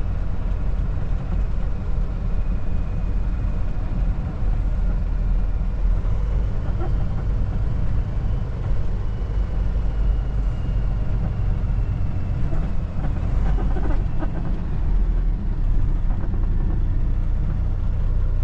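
Kenworth T680 semi truck's diesel engine and road noise while driving at a steady pace: an even, low drone.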